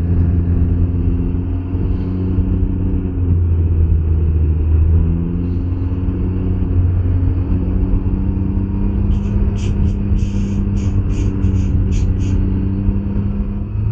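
Can-Am Ryker 900's three-cylinder engine running on the road under way, its note stepping up and down in pitch a few times over steady road and wind noise. A quick run of short high ticks comes about nine seconds in.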